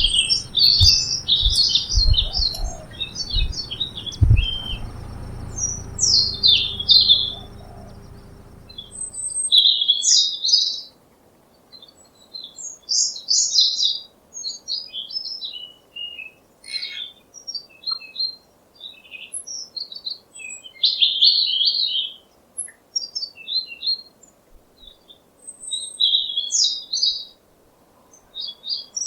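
Small birds chirping and twittering: many short, high calls and trills in quick runs with brief gaps. A low rumble with a few thumps sits underneath for the first third and stops abruptly.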